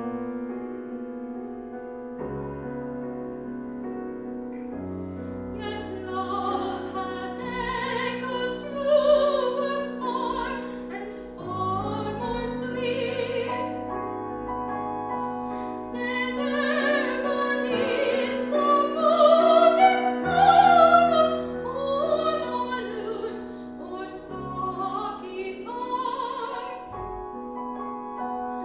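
Classical singer performing with piano accompaniment: piano chords alone at first, then the voice enters about six seconds in, singing with vibrato, and is loudest near the middle.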